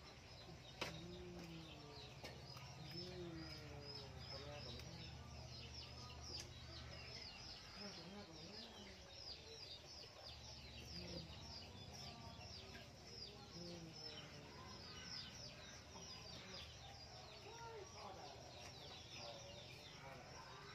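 Faint chirping of small birds, many short falling chirps in quick succession, with low clucking calls now and then. A single sharp click about a second in.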